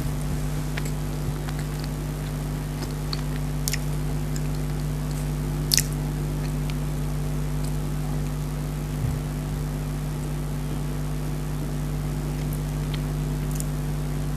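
Someone chewing soft chocolate dry-fruit cake, with a few sharp wet mouth clicks, over a steady low hum.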